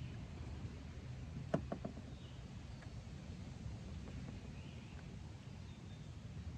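A quick cluster of three or four light clicks about a second and a half in, with another faint click later, from parts of a disassembled Swiss K31 rifle being handled, over a low steady hum.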